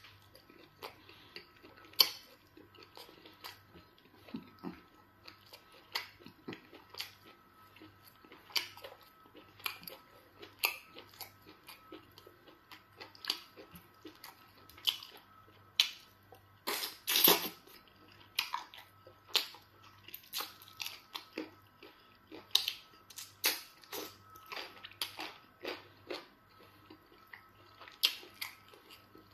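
Close-up mouth sounds of eating fufu and chicken in soup by hand: wet chewing, lip smacks and soft squishes, as many short irregular clicks. A louder, longer noise of about a second stands out about seventeen seconds in.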